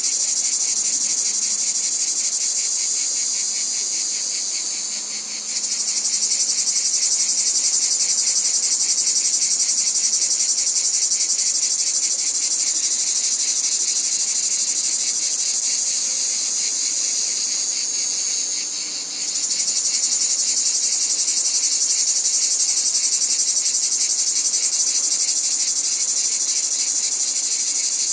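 A dense, continuous chorus of insects, crickets or cicadas, trilling in fast, steady pulses at a high pitch. It dips briefly twice, about five seconds in and again near nineteen seconds, then comes straight back.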